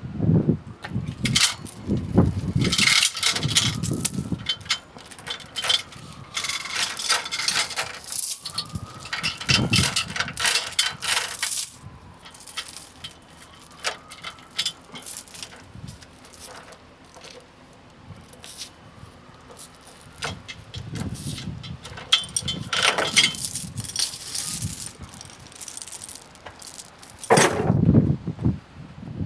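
Irregular metal rattling and clanking in several bouts, with quieter stretches between: the busiest runs are in the first dozen seconds and again near the end.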